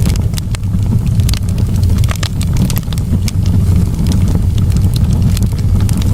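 Wood campfire crackling, with frequent sharp pops and snaps over a loud, steady low rumble.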